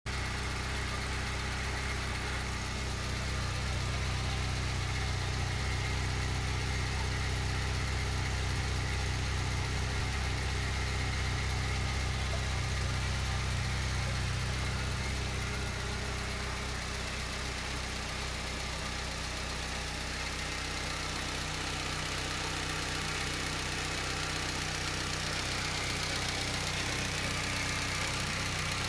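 Fiat Cinquecento Sporting's 1108cc FIRE four-cylinder engine idling steadily while stationary.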